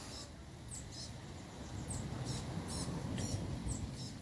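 A small bird chirping over and over: short high chirps, each sliding down in pitch, about two a second. A low rumble lies underneath, louder in the second half.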